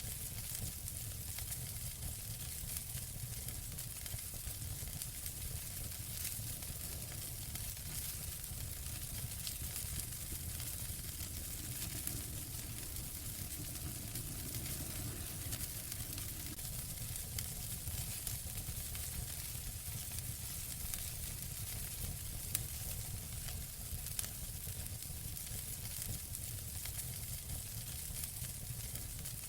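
Wood fire burning in a fireplace: a steady hiss with a low rumble and scattered small crackles, with a couple of sharper pops near the end.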